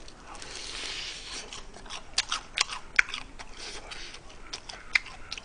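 Chewing crispy fried chicken close to a microphone: irregular crunching and crackling of the fried coating, with a few sharper crunches in the middle and one more near the end.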